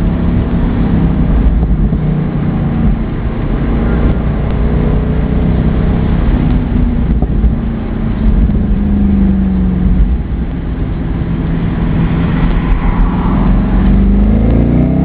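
Mercedes-AMG SL engine running with a low, steady rumble, its pitch wavering slightly, then revs climbing near the end.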